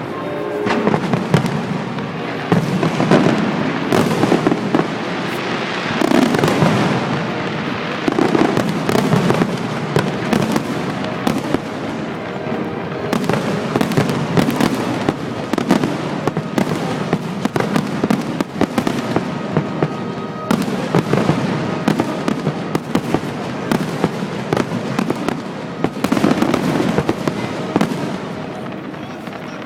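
Large fireworks display: continuous volleys of shells bursting and crackling, rising and falling in repeated surges.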